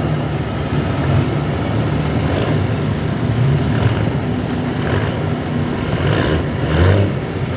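Diesel 4x4 pickup truck's engine running hard at full throttle while pulling a weight sled, a loud, steady drone.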